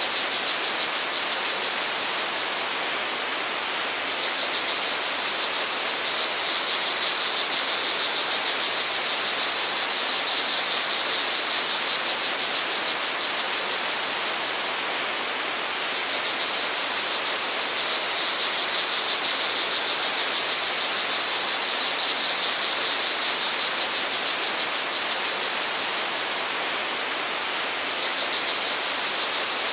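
Flowing water with a steady rushing hiss. Over it, crickets trill in a high, rapidly pulsing tone that comes in spells of several seconds and drops out between them.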